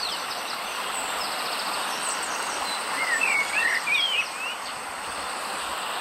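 Tropical forest ambience: a steady hiss with a thin, high insect whine. A bird gives a run of warbling whistles about three to four seconds in.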